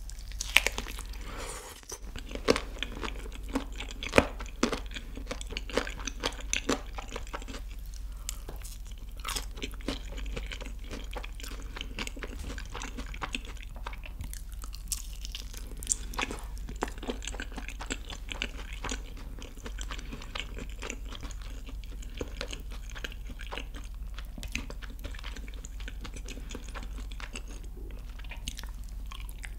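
Close-miked crunching and chewing of a yangnyeom (sweet-sauced) fried chicken drumstick dipped in cheese sauce: crisp bites through the fried crust followed by wet chewing, the sharpest crunches in the first few seconds.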